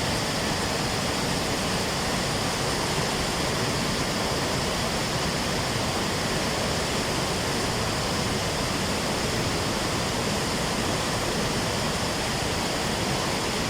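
Ban Gioc waterfall heard up close: a steady, unbroken rush of falling water.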